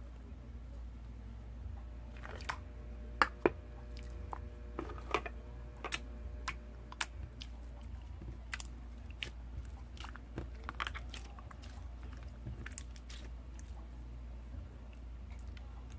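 Slime being pressed and worked by hand, making irregular sticky clicks and pops, the two loudest pops about three seconds in.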